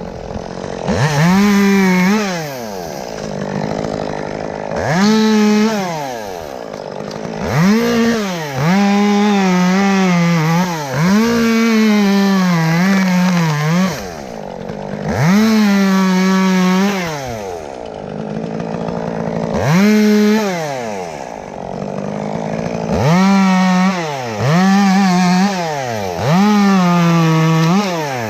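Two-stroke chainsaw cutting into a big elm: the engine revs up to full throttle about ten times in short runs, its pitch sagging slightly under load in the wood, and drops back to idle between cuts.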